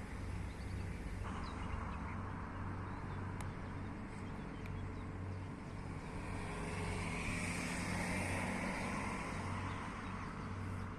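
Heavy truck's diesel engine running steadily, with a rushing noise that swells and fades in the second half.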